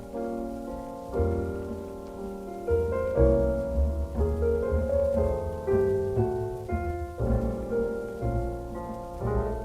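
Slow solo piano music: chords and single notes struck every second or so and left to ring.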